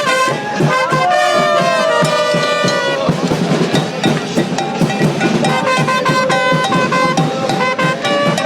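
Football supporters' band playing: bombo bass drums beat a dense, fast rhythm while horns hold notes and phrases over it.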